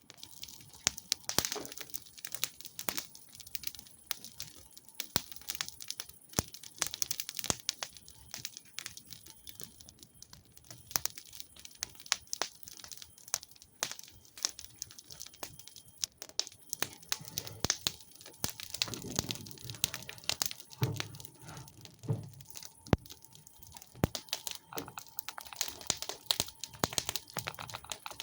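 Campfire burning, with dense irregular crackling and sharp pops.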